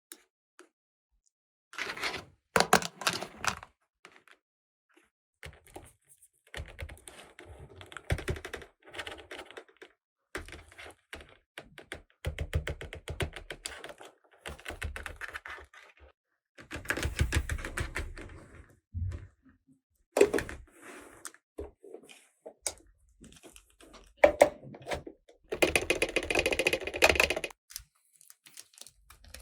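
Small plastic toy pieces being handled, with bursts of rapid clicking, rattling and light knocks that come and go in several stretches, separated by short pauses.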